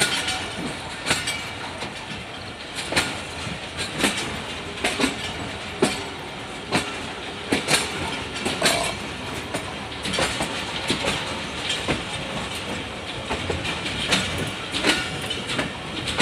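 Passenger train running along the track, heard from on board: a steady rumble of wheels on rail, with sharp clacks about once a second as the wheels cross rail joints.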